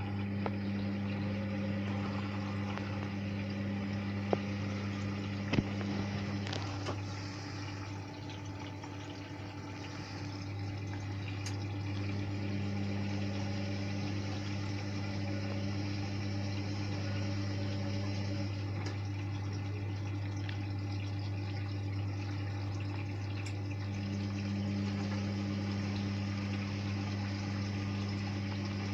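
Hotpoint Ariston washing machine with water running through it over a steady electrical hum. A second, higher hum cuts in and out three times, each time for about six seconds.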